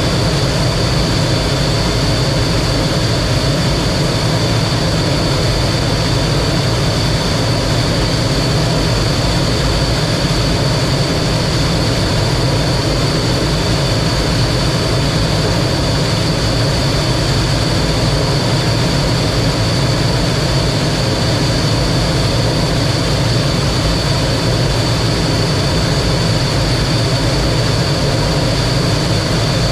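T-33 jet trainer's turbojet engine heard from the cockpit in flight: a loud, steady engine noise with a constant high whine.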